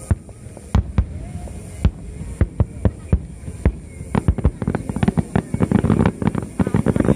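Fireworks display: separate sharp bangs about every half second, thickening from about five seconds in into a dense, rapid crackle of bursts over a low rumble.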